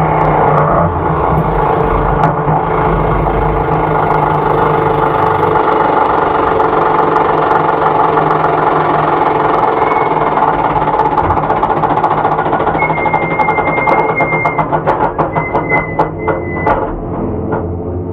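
Onboard sound of a Ford Cortina race car's engine running hard. Over the last few seconds the sound breaks into rapid pulsing with a thin high whine as the car slows: the noise of a stray bolt loose in the gearbox, damaging the gears.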